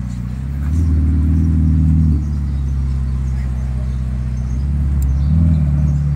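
Ferrari engine running steadily, swelling louder twice for a second or so at a time without its pitch changing.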